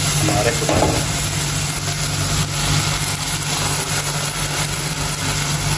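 Onions and tomatoes frying in a pot with a steady sizzle, under a steady low mechanical hum.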